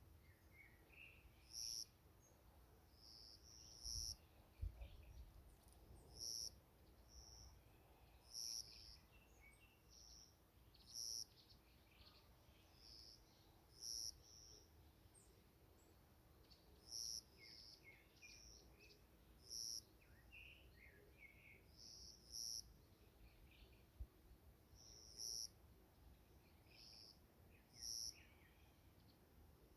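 Birds calling, faint: one bird repeats a short, high note every couple of seconds, while other birds give scattered, lower chirps.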